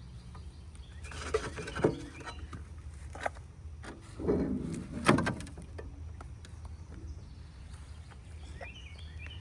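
A few sharp knocks and scraping rattles as the transport wheel and its pin are worked out of a heavy walk-behind tiller that is not yet running. Faint bird chirps come near the end.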